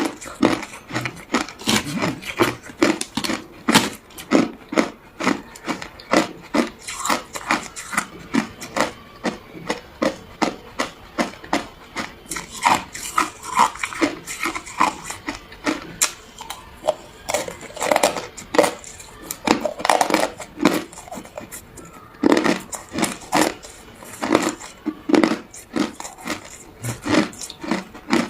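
A person chewing ice, crunching it between the teeth in a steady run of sharp crunches, about two to three a second.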